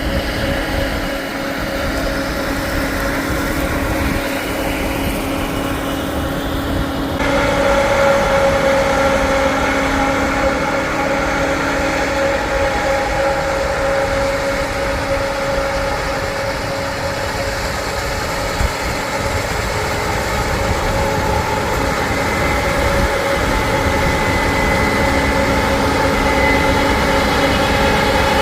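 Diesel engine of heavy harvest machinery running steadily, with a constant hum and whine. About seven seconds in the sound changes abruptly to a slightly louder, different pitch of the same kind.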